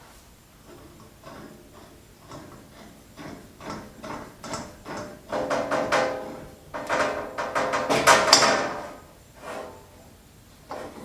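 Metal clinking and scraping as the jaws of a three-jaw puller are set behind a band saw pulley and snugged down, with a quick run of clicks that is busiest about halfway through.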